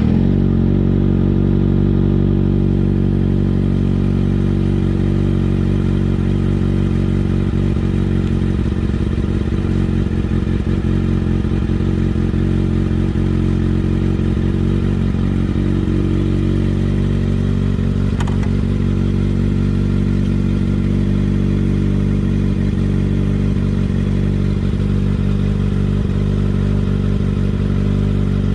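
Kawasaki ZX-6R's inline-four engine, breathing through an M4 GP19 slip-on exhaust, idling steadily at an even pitch just after start-up.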